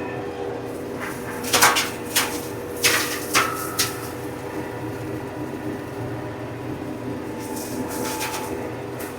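TYM compact tractor running steadily under load, driving a PTO flail mower, with a handful of sharp knocks and cracks in quick succession about one and a half to four seconds in, typical of the flails striking sticks and debris in the brush.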